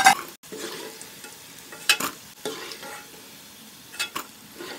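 Flour-coated mushroom pieces sizzling as they deep-fry in hot oil in an aluminium kadai. A metal slotted ladle knocks sharply against the pans a few times as fried pieces are scooped out, loudest at the start.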